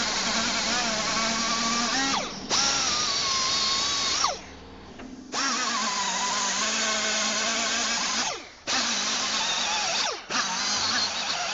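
Power drill running in several long bursts, its whine wavering under load and winding down each time the trigger is let go, as it is used to clean up a truck wheel hub.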